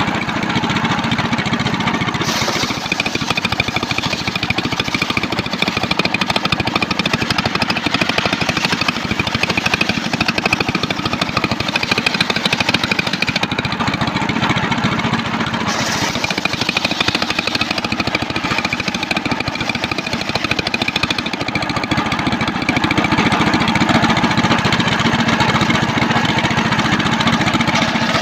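Engine-driven circular sawmill running steadily, a dense mechanical din with the engine and spinning blade; the high hiss changes about two seconds in and again about halfway.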